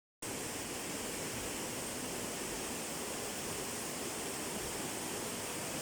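A river in flood after two days of torrential rain, its fast water rushing in a steady, even noise.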